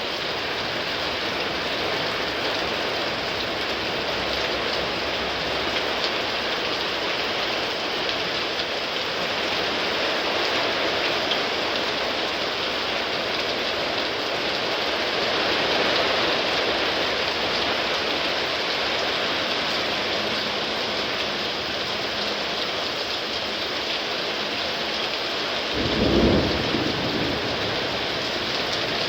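Heavy rain pouring down steadily in a thunderstorm, with one short, loud crack of thunder near the end.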